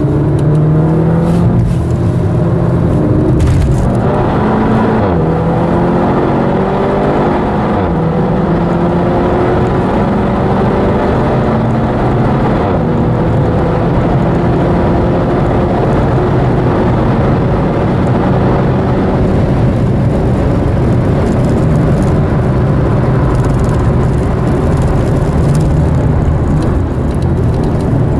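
SEAT Leon Cupra's engine heard from inside the cabin while it is driven hard on track, over steady road and tyre rumble. Its pitch climbs repeatedly under acceleration and drops back between climbs.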